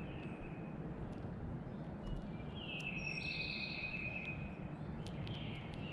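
White-throated sparrow singing: a long, clear whistled note about halfway through, lasting about two seconds, with shorter whistles near the start and end. Underneath is a steady background rumble, with scattered light clicks.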